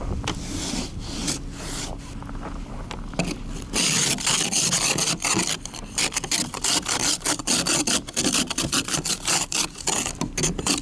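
Ice scraper scraping snow and ice off a car window: a few separate strokes at first, then fast, continuous back-and-forth scraping from about four seconds in.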